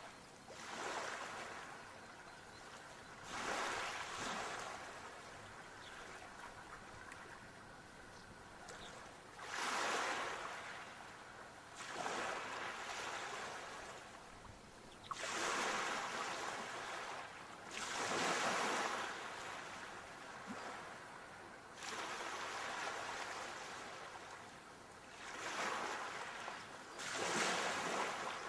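Sea waves breaking and washing on a shore, a hiss that surges and fades again every few seconds, some surges starting sharply.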